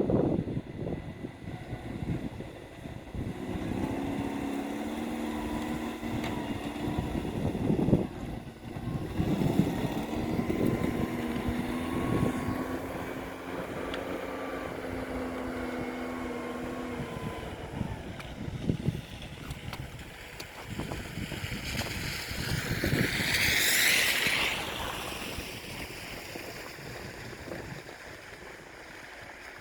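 A motor engine running steadily with wind buffeting the microphone; the engine note fades out a bit past the middle, and a short hissing swell comes near the end.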